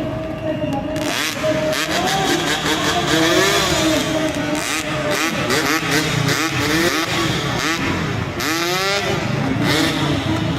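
Motorcycle engines revving, pitch sweeping up and down again and again over a steady lower engine drone, with louder flare-ups of throttle a second in, around the middle and near the end.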